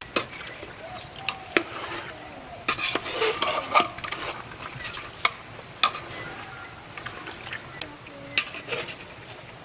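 Spoon stirring and scraping in a big pot of frying chicken curry: a steady sizzle with irregular sharp clanks of the spoon against the pot.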